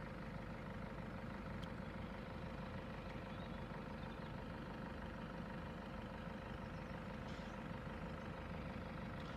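A motor vehicle's engine idling steadily, with a faint steady hum running through it.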